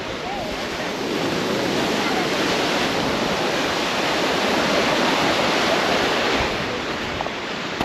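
Sea surf washing in: a steady rush of breaking water that swells after about a second and eases near the end.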